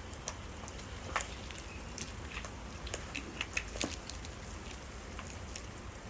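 Rain dripping in scattered light ticks and taps, thickest about two to four seconds in, over a steady low background.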